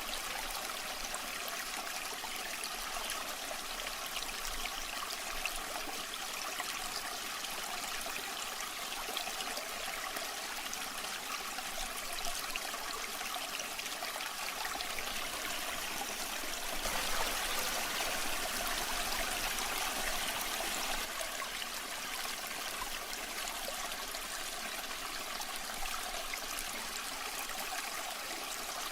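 Waterfall water running and splashing in a steady rush, swelling slightly about two-thirds of the way through.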